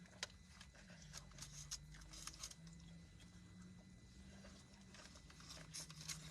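Near silence: a faint steady low hum with scattered small clicks and taps.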